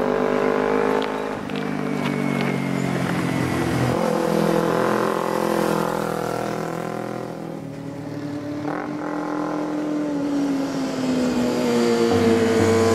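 Motorcycle engines running on the road, their pitch slowly rising and falling with speed, with the engine sound changing abruptly a few times.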